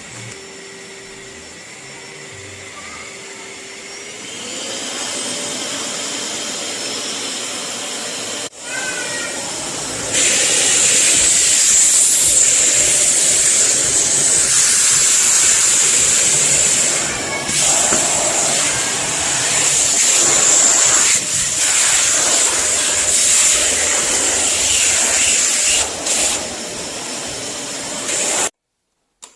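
Kärcher WD 6 wet and dry vacuum cleaner running, its motor whine rising in pitch about four seconds in. It gets louder about ten seconds in and holds a steady high whistle, then cuts off suddenly near the end.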